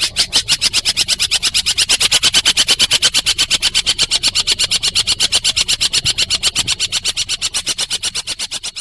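Recorded call for bird training: a long, fast rattle of dry, high clicking notes, about ten a second, growing fainter near the end.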